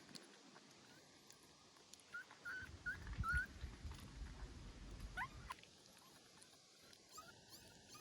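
Newborn puppy whimpering in short, high, rising squeaks, a quick run of them two to three and a half seconds in and a couple more about five seconds in, over a low rumble.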